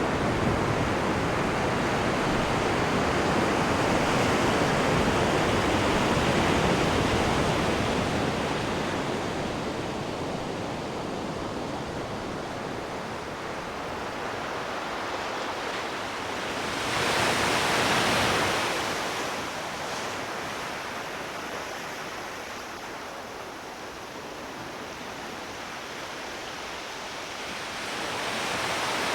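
Sea waves washing onto the shore. The surf swells and fades, with one brighter, hissing break about two-thirds of the way through and another wave building near the end.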